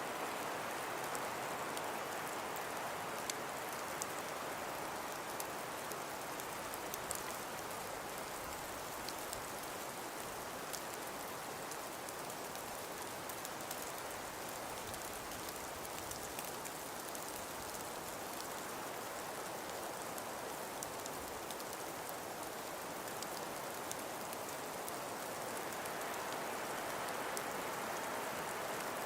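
Steady blowing hiss of wind and falling snow, with many fine ticks of snow grains pattering on a surface. It swells slightly near the end.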